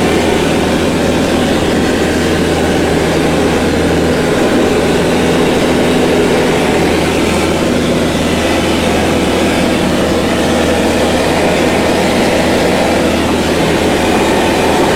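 A steady, loud engine drone with a constant low hum, without a break or change in pitch.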